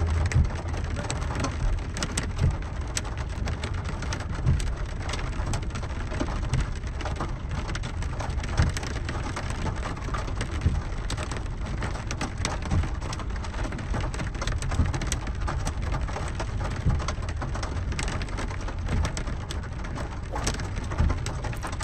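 Rain falling on a car's roof and windscreen, heard from inside the car: a steady hiss with many sharp drop taps over a low rumble.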